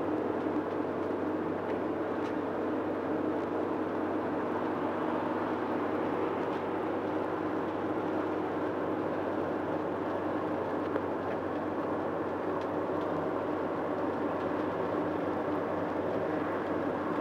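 Steady cabin noise inside a car cruising on a highway: tyre roar and engine hum holding an even level, with no change in speed.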